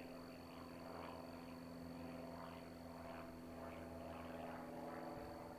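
Faint steady low hum, like a distant engine, with a thin high tone over it and soft pulses repeating about once or twice a second.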